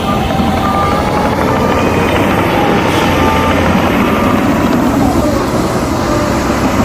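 Heavy diesel earthmoving machinery running steadily under load, with a short beep repeating about once a second through the first part.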